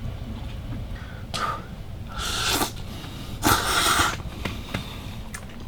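Udon noodles being slurped from close up: three airy slurps, a short one followed by two longer ones.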